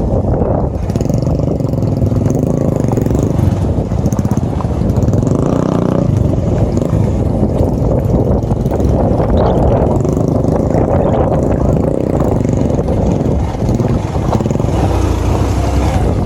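Small motorcycle engine running while the bike is ridden along a dirt trail, a steady engine sound with no clear change in pace.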